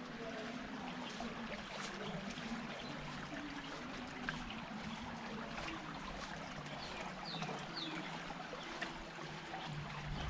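Water trickling and running in a small stream, a steady, even rush.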